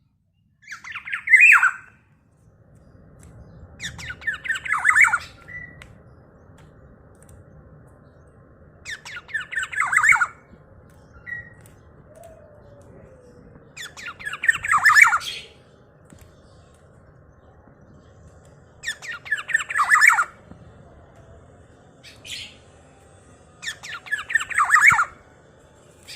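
Black-naped oriole (kepodang) repeating a harsh, falling call about every five seconds, six times in all, over a low steady background hum.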